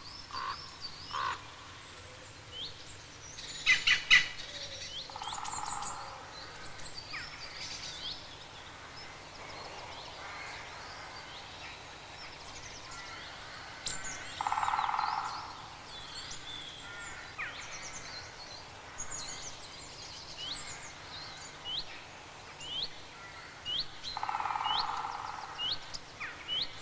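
Woodland birds singing and calling, with many short, high chirps and rising notes. A lower call comes three times, about ten seconds apart.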